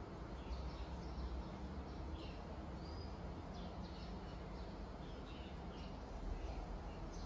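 Small birds chirping in short, scattered calls over a steady low background rumble of outdoor ambience.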